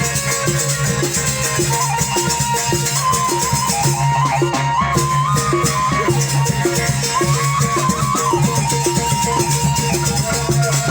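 Sasak ale-ale ensemble music from Lombok: a steady, even percussion beat of drums and rattles at about three strokes a second under a high melody that steps up and down.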